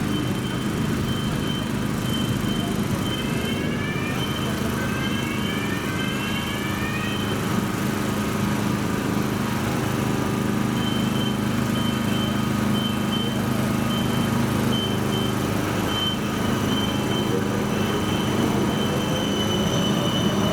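D2-class tram in street traffic: a steady electric hum, with a high beep repeating in short pulses and rising whines from the traction drive as it pulls away, a few seconds in and again near the end.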